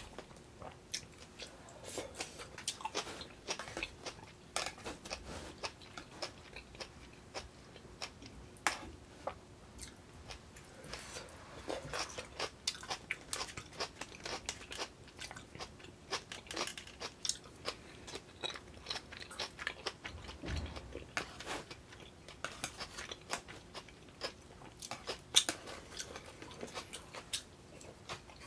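Close-miked chewing and biting of side dishes, with frequent small sharp clicks of chopsticks against a plastic side-dish tray. One click stands out louder about 25 seconds in.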